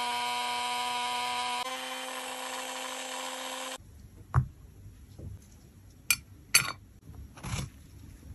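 A small electric motor whirs steadily, rises slightly in pitch about a second and a half in, and stops abruptly just under four seconds in. Then come a few separate light clicks and taps.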